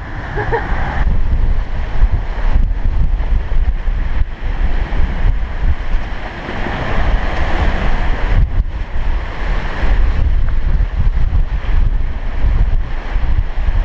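Strong wind, about 30 knots, buffeting the microphone in gusts over the rush of rough seas and waves breaking past a sailing catamaran's hulls.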